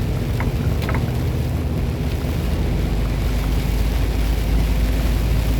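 Semi-truck cab interior: the diesel engine drones under rain on the truck, with a few quick ticks in the first second. The low engine sound grows louder about halfway through.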